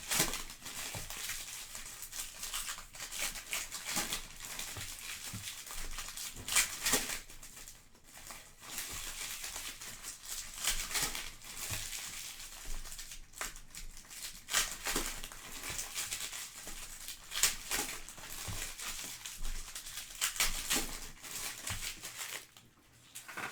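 Trading-card pack wrappers crinkling and rustling as packs are torn open and the cards handled, in irregular crackles and scrapes with short pauses.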